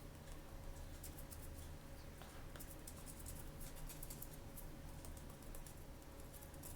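Faint crinkling and rustling of blind-bag packaging being handled and opened by hand: a quick run of small crackles and clicks over a steady low room hum.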